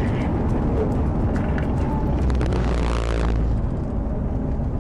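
Car engine and road noise heard through a police dashcam: a steady low drone under a broad hiss, with a few faint clicks. The hiss eases a little past three seconds in.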